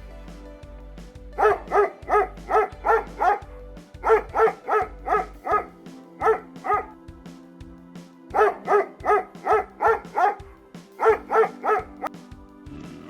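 A dog barking in quick runs of high, sharp yaps, about three a second, in several bursts over background music.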